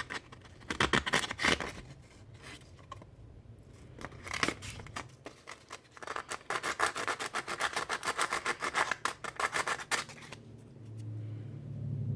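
Sandpaper rubbed by hand over a small part of a Goatguns miniature SVD model, in quick back-and-forth scratchy strokes that come in two spells. A steady low hum comes in near the end.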